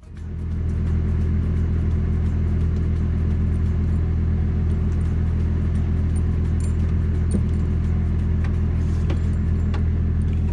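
Semi-truck's diesel engine idling steadily, with a few faint clicks in the second half.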